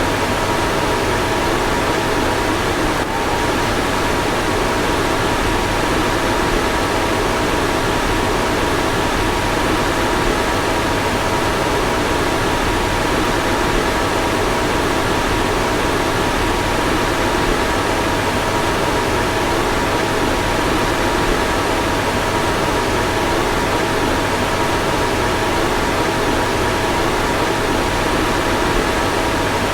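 A car's fan blowing steadily: an even rush of air with a faint two-note hum, with a slight hitch about three seconds in.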